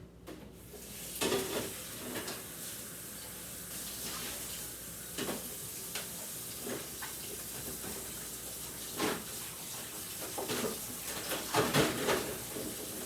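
Kitchen tap running into a sink as items are rinsed, with scattered knocks and clatters of things against the sink, the loudest cluster near the end.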